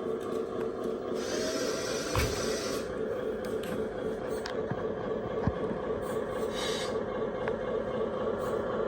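Small electric motor of a radio-controlled 8x8 hydraulic dump truck running with a steady whine, with a couple of faint clicks.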